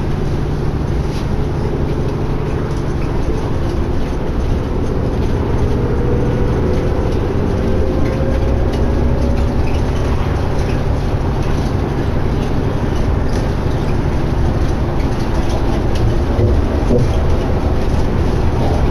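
Inside a 2011 New Flyer D60LFR articulated diesel bus under way: a steady engine drone with road and cabin noise. A faint whine rises in pitch about a quarter of the way in.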